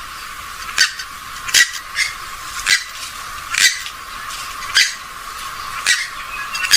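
Rail-family waterbird, a swamphen or moorhen, giving short, sharp calls repeated about once a second.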